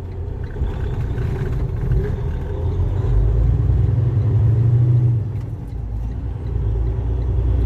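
Semi-truck diesel engine running, heard from inside the cab as a low rumble that grows louder about three seconds in and eases off again around five seconds.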